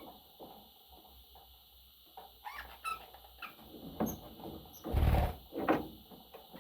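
A pet budgerigar making scattered soft chirps and chatter, with a brief loud thump about five seconds in.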